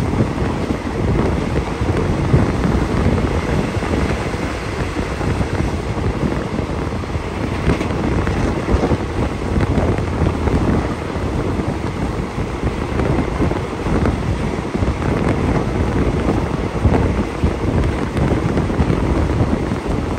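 Wind rushing past an open window of a moving passenger train and buffeting the microphone, over the steady rumble of the carriage running on the rails.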